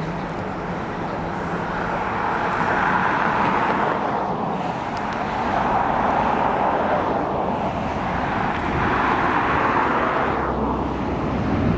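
Boeing 747-400's four jet engines during a low pass and go-around: a loud, steady jet rumble that swells and eases in slow waves.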